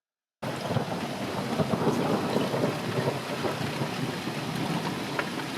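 Steady thunderstorm noise, heavy rain pattering with a dense crackle, cutting in suddenly about half a second in after dead silence.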